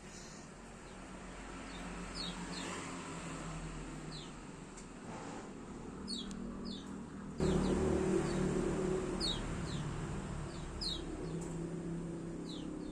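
Small bird chirping 'ciak ciak': short, high, falling chirps, often two in quick succession, every second or two. Underneath is a low background rumble that gets suddenly louder about seven and a half seconds in.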